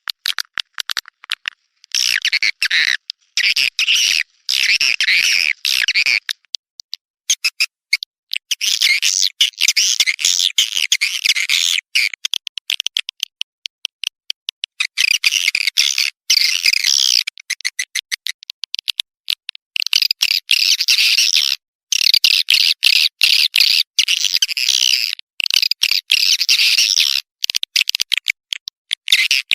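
Edible-nest swiftlet calls: fast, rattling chirps and twitters in runs of a second or two with short gaps between, the kind of calling sound played back in swiftlet houses to lure the birds in to roost and nest.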